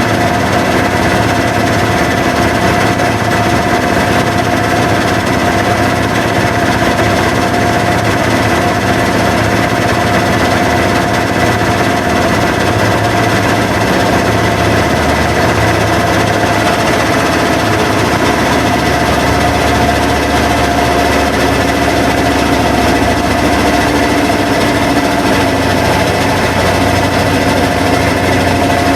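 Washing machines running with a loud, steady mechanical noise and a constant whine, unbroken throughout.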